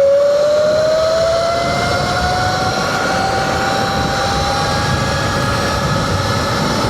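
Sur-Ron Light Bee electric dirt bike's motor whining as it accelerates, the pitch rising slowly for about five seconds and then holding steady, over wind and road rumble.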